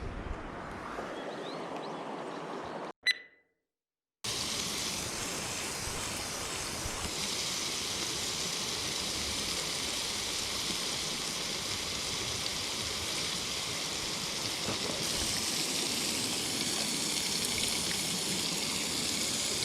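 Mountain stream water rushing steadily over rocks. About three seconds in, a brief click and a second of dead silence break it, and the rushing comes back louder and steady.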